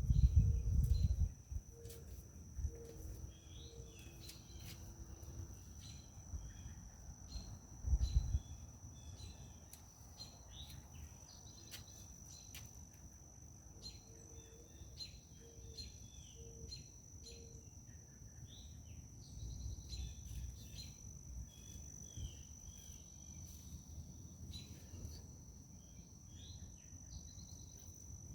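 A steady high-pitched insect drone with scattered bird chirps over it. A low four-note call comes twice, and low rumbles, likely wind on the microphone, are heard at the start and about eight seconds in.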